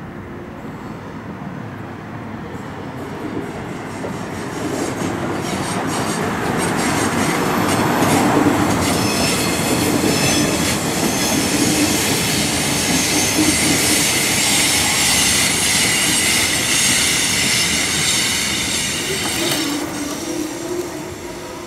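Two coupled DB class 445 double-deck electric multiple units running across a concrete railway viaduct, the sound growing louder as they approach and staying loud while they pass. Through the latter half a high squeal of several pitches rides over the running noise and cuts off abruptly shortly before the end.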